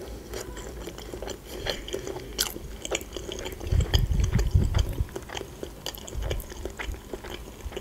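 Close-miked chewing of a bitten-off piece of sausage, with scattered small mouth and fork clicks and a few soft low thumps about four seconds in.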